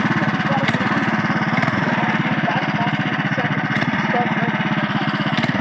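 Minibike's small engine idling steadily, an even run of firing pulses with no revving.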